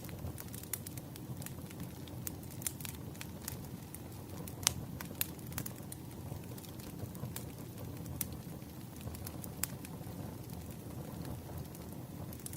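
Wood fire crackling: a steady low rumble of burning logs with irregular sharp pops, the loudest about four and a half seconds in.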